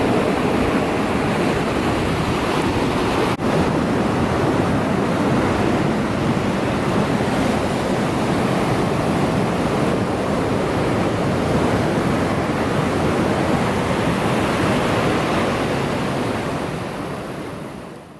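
Steady rushing of ocean surf, with a brief click about three seconds in, fading out near the end.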